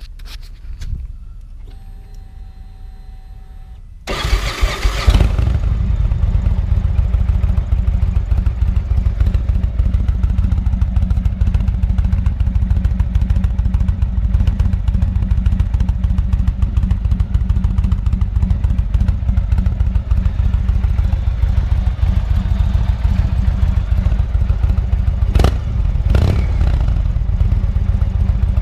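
Indian Roadmaster V-twin engine through TAB aftermarket exhaust with 2.5-inch louvered baffles, starting about four seconds in after a faint steady hum, then idling steadily and loudly with a deep, uneven beat.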